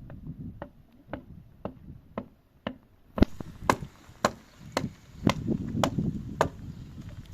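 A hammer striking wood at an even pace of about two blows a second, as nails are driven into wooden boards. The blows grow louder about three seconds in.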